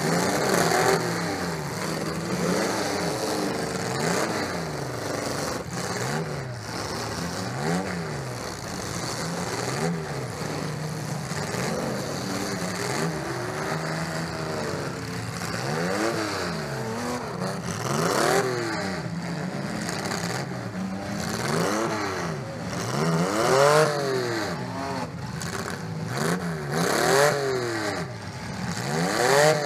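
Demolition derby car's engine in a welded-up Chevrolet Lumina, heard from inside the stripped cabin, repeatedly revving up and dropping back, the revs coming about every one and a half to two seconds and loudest in the second half.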